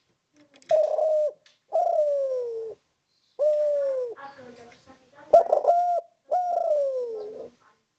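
Spotted dove cooing: five drawn-out coos in a row, each gliding down in pitch and cut off sharply, with short pauses between them.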